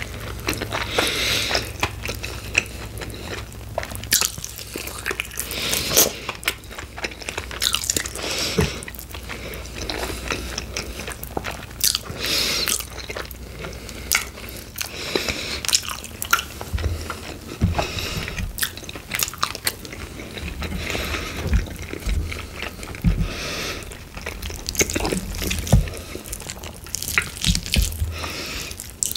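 Close-miked biting and chewing of sauced chicken wings: an irregular run of sharp crunches and clicks with wet mouth sounds, bite after bite.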